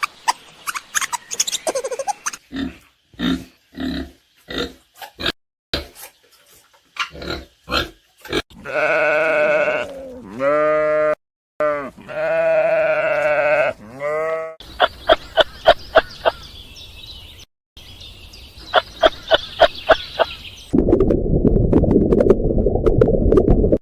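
A run of farm animal calls, cut one into the next. Short grunting calls come first, then long wavering bleats from a goat or sheep for several seconds. Rapid high chirps follow, and near the end a dense low clamour sets in.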